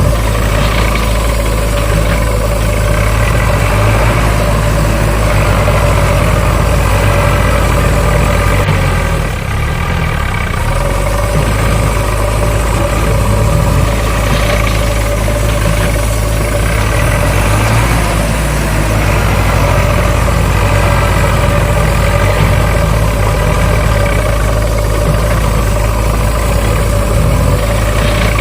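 A motor running steadily, with a brief drop in level about nine to ten seconds in.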